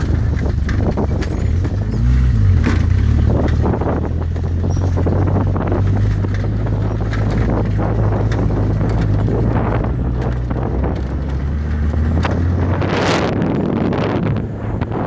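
A motor vehicle's engine running steadily, with road noise and frequent knocks and rattles. About thirteen seconds in, a louder rush of noise swells and fades.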